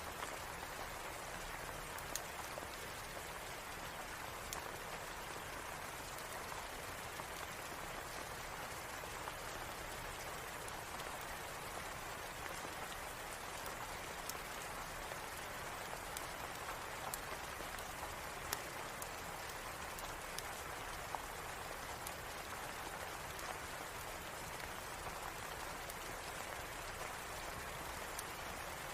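Steady rain falling, an even hiss, with scattered sharp ticks and clicks every few seconds.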